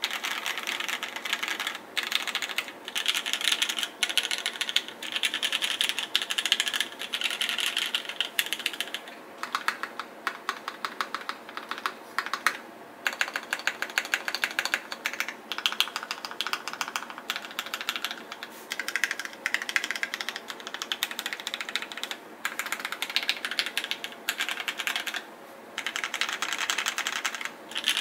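Typing on a Savage65 custom mechanical keyboard with lubed Gateron Black Ink V2 linear switches and GMK Cafe keycaps. Runs of rapid keystrokes are broken by short pauses every few seconds.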